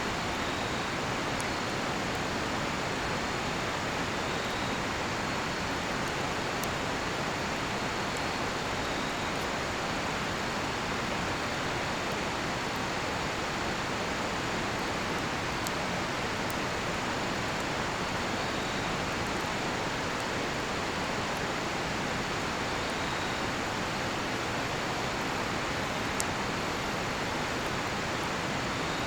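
River water flowing in a steady rush, with a few sharp crackles from a burning cedar-wood campfire and faint repeated chirps of crickets.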